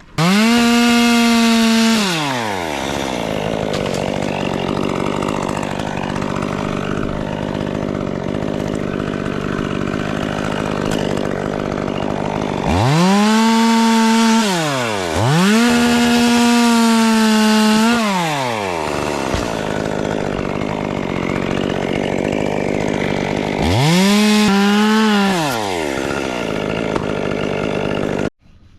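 Two-stroke chainsaw idling and being revved up to full throttle four times, each time holding a high, steady pitch for a second or two before dropping back to idle. The sound cuts off suddenly near the end.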